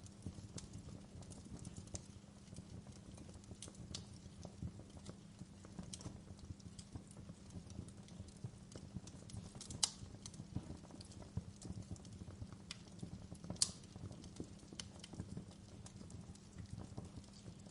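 Wood fire burning in a fireplace: a steady low rumble with scattered crackles and pops, the two loudest about ten and fourteen seconds in.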